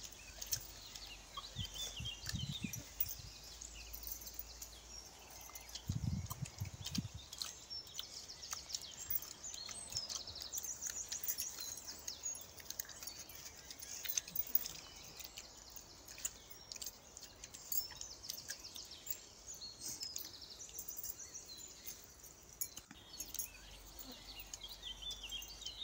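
Birds chirping and calling in short repeated notes, over a steady outdoor background, with a few low thumps near the start and about six seconds in.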